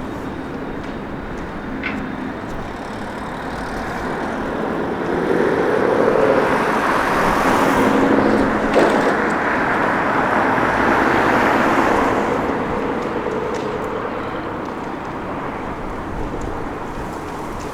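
Road traffic with a vehicle passing close by: its tyre and engine noise builds over a few seconds, holds for several seconds in the middle, then fades away.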